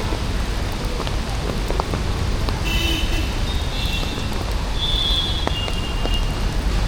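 Steady monsoon rain with street traffic noise and a low rumble, scattered drops ticking. A few thin, high tones sound from about three to five and a half seconds in.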